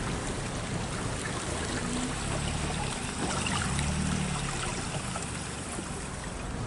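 Car driving through deep floodwater: water swishing and splashing steadily around the wheels and body, with the engine running low underneath.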